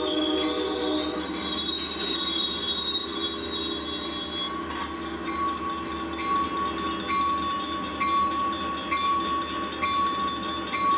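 Commuter train arriving: its horn dies away about a second in, then a high steady brake squeal as it draws to a stop. After that a level-crossing warning bell rings on at an even pace of about one ring a second.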